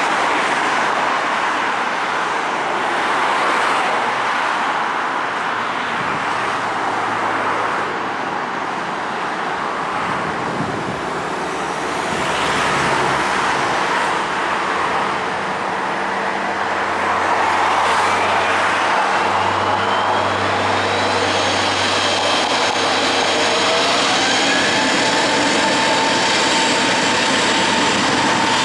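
Road traffic noise mixed with an Airbus A320neo's jet engines, which spool up for takeoff in the second half: rising whines that level off into a steady high whine over the engine noise.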